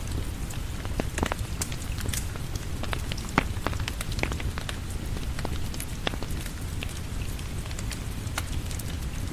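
Steady rain with a fireplace crackling, a layered ambience of a low rushing hiss and many sharp, irregular pops; the loudest pop comes about three and a half seconds in.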